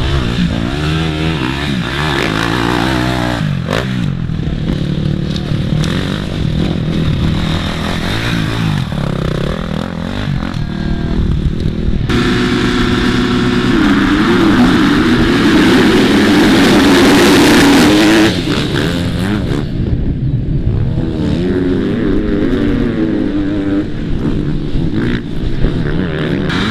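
Motocross dirt bike engines revving up and down as the bikes race on the track. The loudest stretch is a bike passing close about halfway through, which cuts off suddenly about 18 seconds in.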